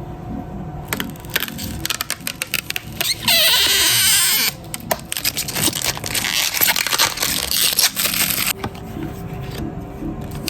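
Close crinkling and crackling of plastic packaging being handled, with a louder rasp lasting about a second, like film being peeled or torn, about three seconds in. Soft background music plays under it.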